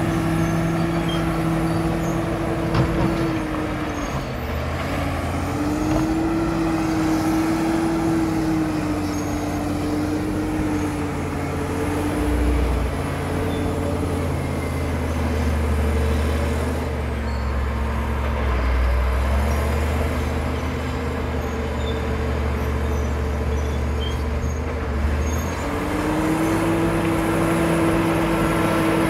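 Caterpillar D7 bulldozer's diesel engine running steadily, its pitch dipping and picking up again twice.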